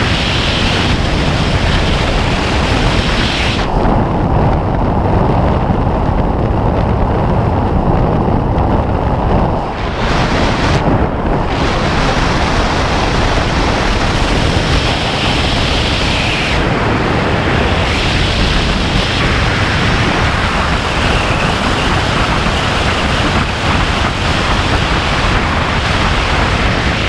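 Loud, steady rush of wind over the camera microphone during a skydive. The hiss dulls for several seconds near the start, then brightens again.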